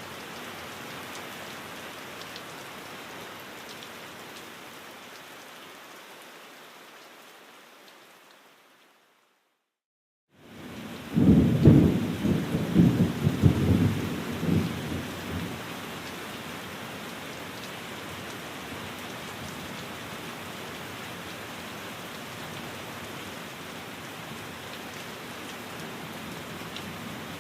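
Steady rain fades away to a second of complete silence about nine seconds in, a seam in the looped recording. The rain then comes back with a rolling rumble of thunder lasting about four seconds, and runs on steadily after that.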